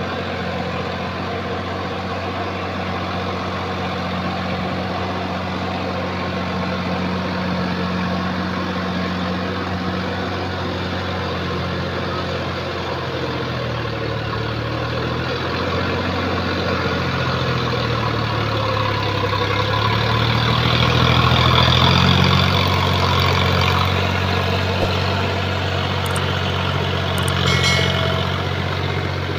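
Sonalika tractor's diesel engine running steadily. Partway through, its pitch sags and wavers, then climbs back and grows louder, as the engine labours under changing load in deep mud.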